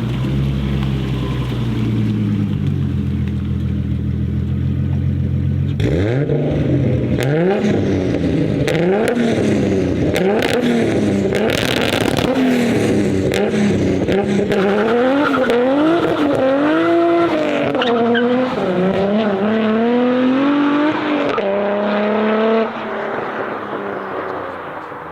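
Nissan Skyline R33's turbocharged RB25DET straight-six engine, holding steady for about six seconds, then revved up and down over and over with sharp cracks in the exhaust. It drops off in level near the end.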